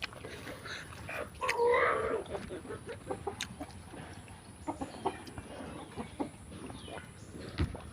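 A chicken calls once, a short clucking cry about a second and a half in. Small scattered clicks of eating and chewing run underneath.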